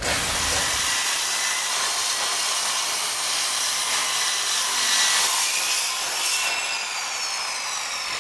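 Handheld electric circular saw cutting through an old, weathered timber plank: a steady high whine over the rasp of the blade in the wood. About six and a half seconds in, the whine starts to fall in pitch.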